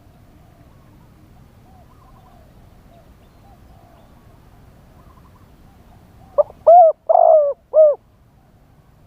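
Spotted doves cooing: faint coos go on throughout, then about six and a half seconds in a close bird gives a loud phrase of short coos with one longer, rougher note in the middle.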